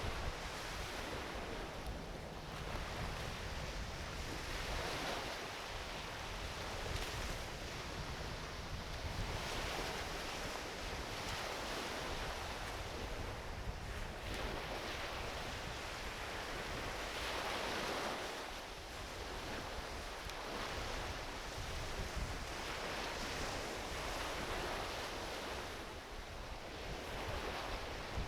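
Small ocean waves breaking and washing up a beach, the surf swelling and easing every few seconds, with a low rumble of wind on the microphone.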